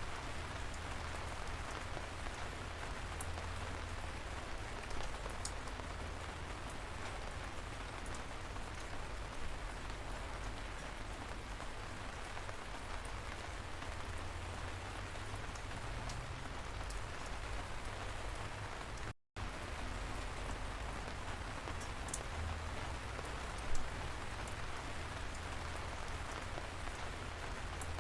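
Light rain falling steadily, a soft even patter with scattered sharp individual drips and a low rumble underneath. The sound cuts out for an instant about two-thirds of the way through.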